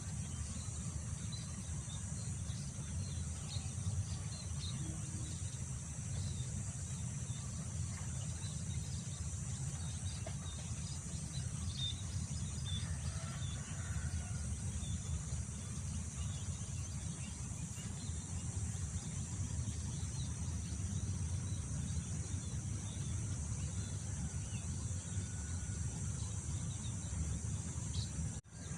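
Wind buffeting the microphone in a steady low rumble, over a continuous high drone of insects and scattered faint bird chirps. The sound drops out briefly near the end.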